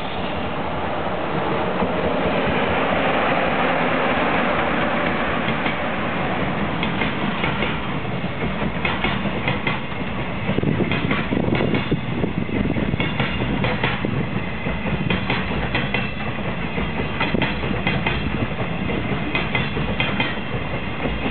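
EF66 electric locomotive and its train of container flatcars passing on the main line. First a broad rushing noise as the locomotive goes by, then, from about a third of the way in, the wagons' wheels clicking in quick repeated groups over the rail joints.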